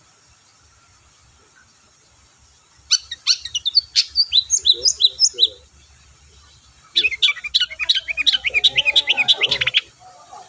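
Long-tailed shrike (cendet) singing in two bouts of rapid, sharp chattering notes. The first starts about three seconds in and the second, denser bout starts about seven seconds in.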